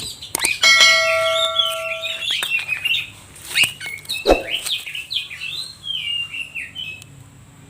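Oriental magpie-robin singing a fast, varied run of high chirps and whistles. A steady ringing tone sounds over the song from about half a second to two seconds in, and there is a single sharp knock about four seconds in.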